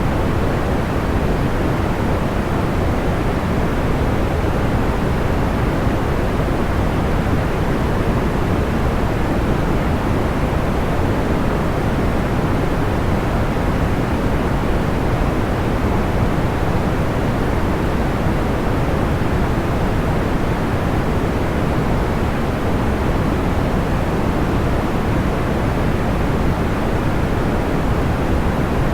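Steady soft noise, deepest in the lows and fading toward the highs, with no change and no crackles or pops: a pink-noise style sleep-sound track.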